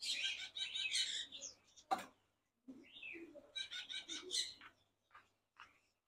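Small caged birds chirping and twittering in two short spells, with a single click about two seconds in.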